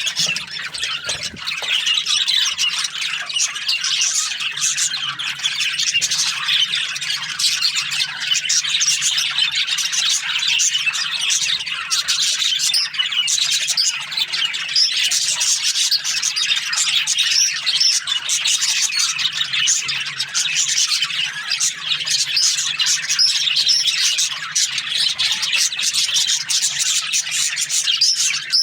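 A flock of budgerigars chattering and squawking continuously, many birds calling over one another in a dense, high-pitched chorus.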